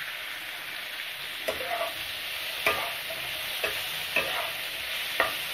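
Sheem (flat bean) pieces frying in mustard oil in a nonstick kadai, with a steady sizzle. A spatula stirs the beans, knocking and scraping against the pan a few times.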